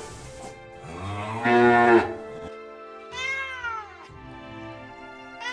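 A cow moos once, then a cat gives a single falling meow about a second later, over soft background music with long held notes.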